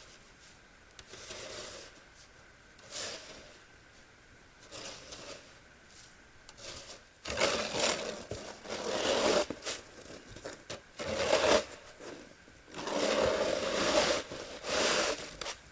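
Snow shovel scraping and pushing snow in a run of irregular strokes, each a second or two long. The strokes are faint at first and grow louder about halfway through.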